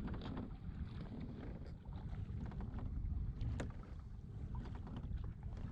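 Kayak on the water: light splashes and small knocks of water against the hull over a steady low wind rumble on the microphone.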